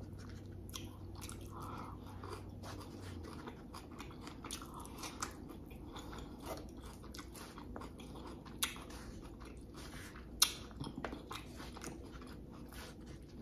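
Close-miked chewing and mouth sounds of a person eating a Chipotle bowl of chicken al pastor, rice and lettuce, with small clicks of a plastic fork scooping in the bowl. A few louder clicks come in the second half.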